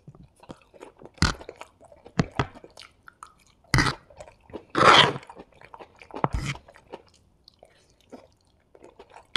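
Close-miked wet chewing and mouth sounds of a person eating forkfuls of hakka noodles, with a few louder sharp bursts scattered through, the loudest about halfway.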